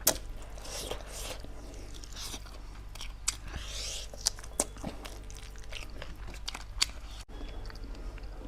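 Close-miked chewing of meat, with wet mouth sounds and several sharp crunches spread through.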